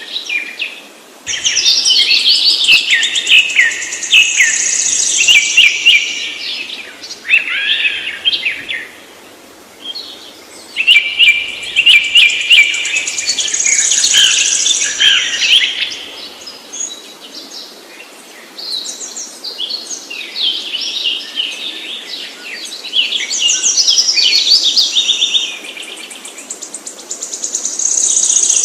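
Birds singing and chirping in dense runs of rapid, high chirps, in phrases of several seconds with short lulls between.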